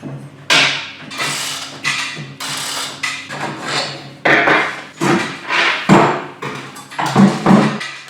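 Hand tools working on the metal parts of a pocket bike as it is taken apart: a quick, irregular run of knocks, clanks and scrapes, several a second.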